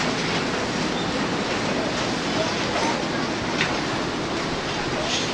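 Passenger train pulling out of the station, its coaches rolling past with a steady rumble of wheels on rail. A couple of brief sharp sounds come through near the end.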